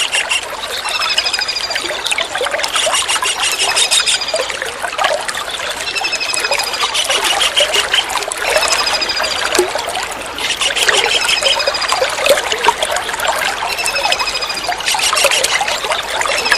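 Small kingfisher (tengkek udang) calling over steady trickling water. High, thin sliding notes alternate with rapid rattling chatters, and the bursts come back about every four seconds.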